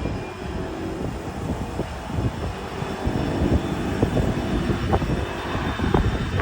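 Jet engine noise from a Boeing 777F's GE90 turbofans: an uneven low rumble with faint steady whining tones above it.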